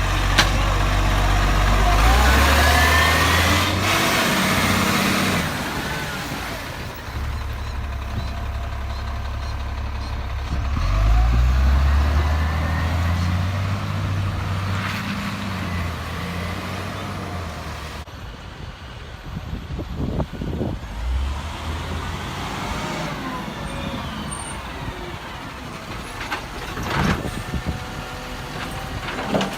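Garbage truck engine running and revving up several times, with higher whines rising and falling above it.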